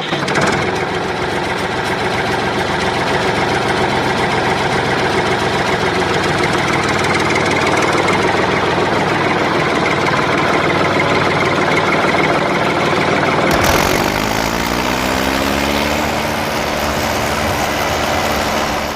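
A motor running steadily with a rough mechanical hum. About 14 seconds in the sound changes, and a rising whine climbs for a couple of seconds before levelling off.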